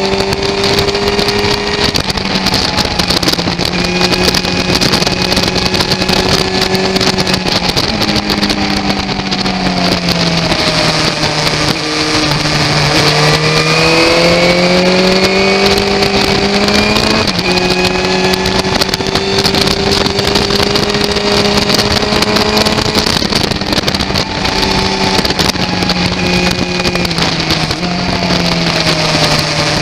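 Motorcycle engine running hard at speed. The revs rise and fall through the corners, with sudden steps in pitch at gear changes: a dip and step around 8 to 11 seconds in, a long climb from about 13 to 17 seconds, and another step around 17 seconds.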